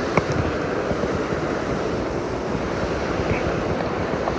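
Mountain stream rushing over rocks, a steady, fairly loud water noise. A single brief click sounds just after the start.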